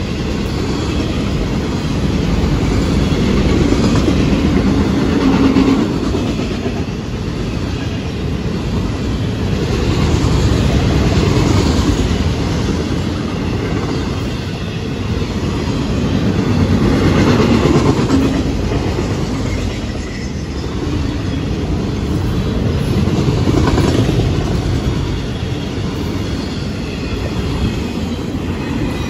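Freight train of autorack cars rolling past close by: a continuous rumble and clatter of steel wheels on the rails, swelling and easing every six seconds or so.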